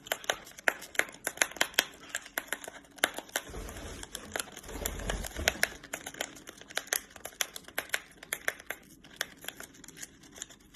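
A parrot tearing and crinkling open a paper tea packet with its beak: a fast, irregular run of sharp crackles and snaps, with a dull low rumble of handling about four to five seconds in.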